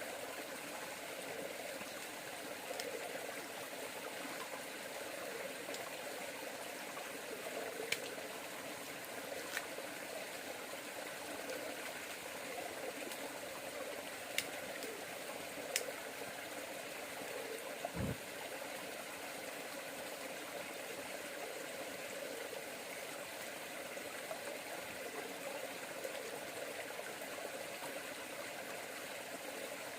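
A river flowing in a steady, even rush, with a few sharp clicks and one brief low thud about eighteen seconds in.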